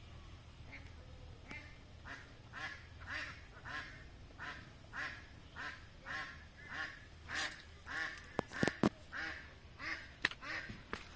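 An animal calling over and over in short pitched calls, about two a second, with a few sharp clicks late on.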